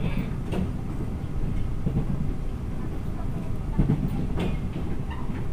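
Rumble of a moving passenger train heard from inside the carriage, steady and low, with a few brief knocks from the running gear.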